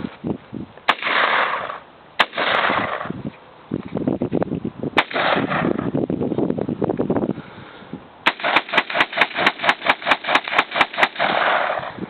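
AR-15 rifle firing: three single shots a second or more apart, then a rapid string of about fifteen shots in under three seconds, about five a second, firing the magazine empty.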